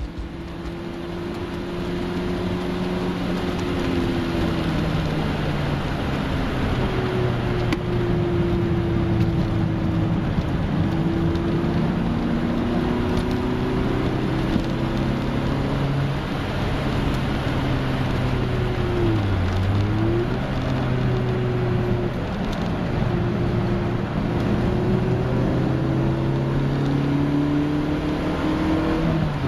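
Engine of a Mk1 VW Golf Cabriolet 1.8i, heard from inside the cabin while it is driven hard on track. Its pitch climbs and falls repeatedly, with a quick dip and rise about two-thirds of the way in, over a steady rush of road noise.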